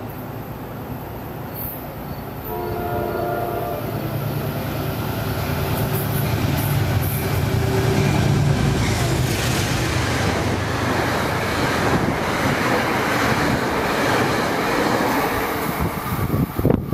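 A Metro-North Hudson line express train sounds a short horn chord about two and a half seconds in, then passes at speed: a loud steady rush of wheel and rail noise builds and holds. Wind buffets the microphone near the end.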